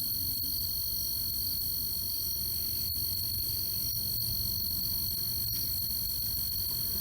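Night insect chorus, a steady high-pitched drone of crickets and katydids, over a steady low rumble, with a few faint clicks.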